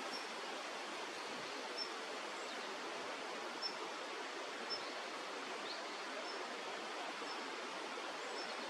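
Steady rushing of flowing stream water, with faint short high chirps recurring about once a second.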